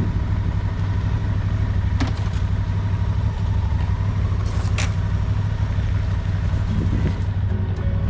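Motorcycle on the move: a steady low engine rumble mixed with road and wind noise, with a couple of brief sharp ticks.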